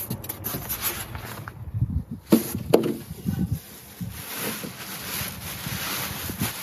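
Unpacking noises: rustling of packaging with scattered knocks and clicks, two sharp ones a little after two seconds and near three seconds.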